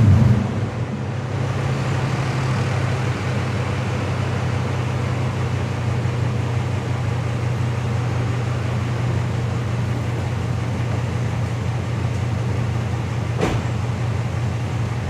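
2010 Nissan Titan's 5.6-litre V8 idling steadily through its exhaust, a low even note, settling from a rev just as the sound begins. There is a single sharp click about thirteen seconds in.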